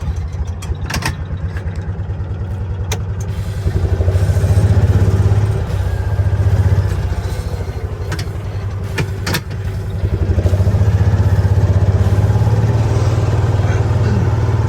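Truck engine running as the truck is driven, its note getting louder with throttle for a stretch about four seconds in and again from about ten seconds on. A few sharp knocks or rattles cut in along the way.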